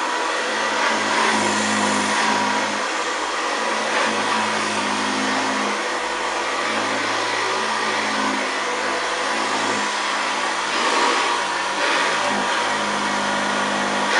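1962 Hoover Senior 652A upright vacuum cleaner running steadily, a growling motor sound with a faint steady whine over the rush of air.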